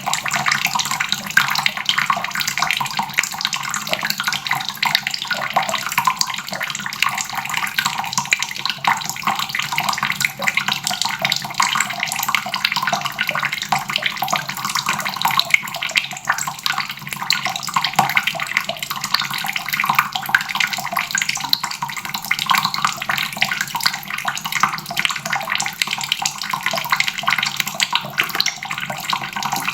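Water faucet running in a steady stream, splashing continuously into the basin below.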